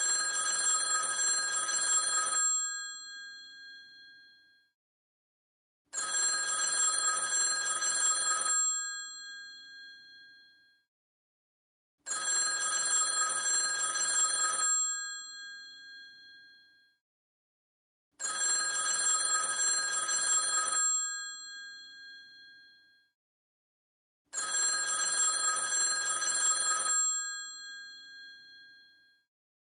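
Old telephone's mechanical bell ringing in a regular cadence: five rings of about two and a half seconds, one every six seconds, each with a ringing tail that fades away before the next ring.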